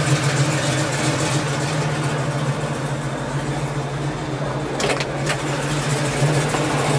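The Camaro's fuel-injected 396 big-block V8 idling steadily as a low, even hum. Two short sharp clicks come about five seconds in.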